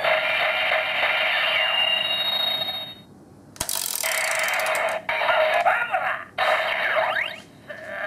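Electronic sound effects from a Kyoryuger toy playing a Zyuden battery through its small speaker, thin and tinny with chirping, sweeping tones. About three seconds in they stop briefly, then a sharp click sets off a loud burst and a string of choppy effects with short gaps.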